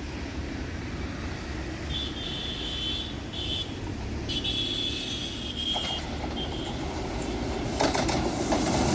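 Passenger train hauled by a WAP-7 electric locomotive rumbling along the track, growing louder as it approaches. Thin high-pitched squeals come and go in the middle, and a few sharp clicks sound near the end.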